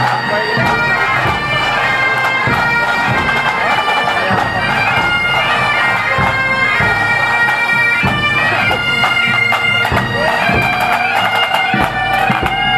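Bagpipe band playing: pipes sounding a tune in held, stepping notes over their steady drones, with drum beats underneath.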